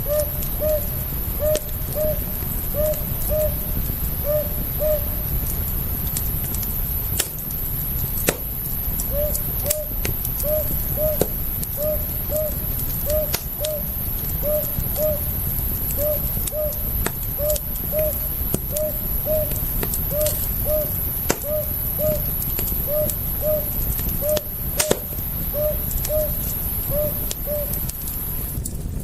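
Wood fire crackling, with scattered sharp snaps over a steady low rumble. Short hoots repeat in pairs throughout, pausing for a few seconds after the first five or so seconds.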